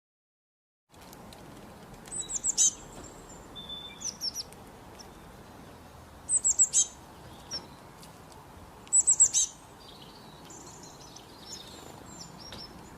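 A songbird singing short phrases of quick, very high notes that slide downward. The three loudest phrases come about two, six and nine seconds in, with softer twitters between, over a faint steady hiss.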